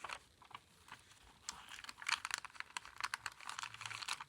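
Paper pages of a handmade junk journal being handled and turned: irregular light ticks and crinkling rustles, busier from about a second and a half in.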